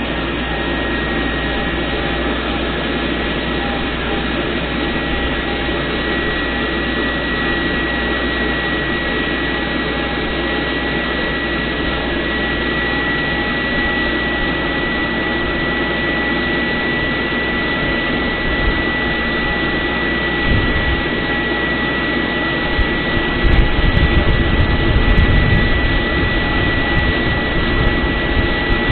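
MTZ-892 tractor's diesel engine running steadily under load, with a constant high whine over the engine noise. Low thumps and rattles come in about two-thirds of the way through.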